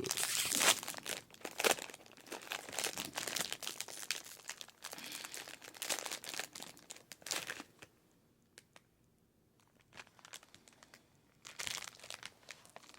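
Plastic wrapper of a frozen wafer ice-cream sandwich being torn open and crinkled, with a pause of a few seconds after about seven seconds before the crinkling resumes.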